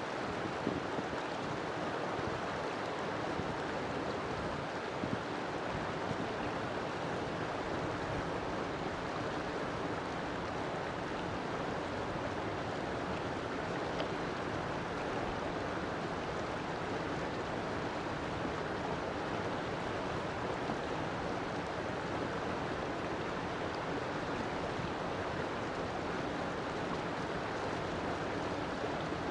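River water flowing in a steady, continuous rush with no breaks or changes.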